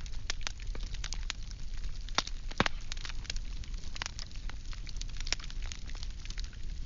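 Firewood burning, with irregular crackles and sharp pops over a low steady rumble of flame. The loudest pops come about two and a half seconds in.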